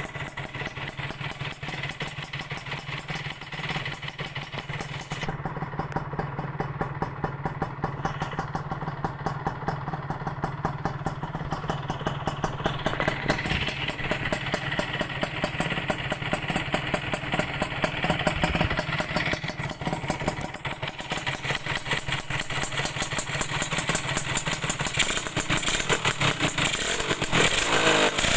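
Suzuki Satria 120 two-stroke single-cylinder motorcycle engine running through an AHAU under-belly aftermarket exhaust, with a fast, even run of exhaust pulses. It grows louder over the last several seconds.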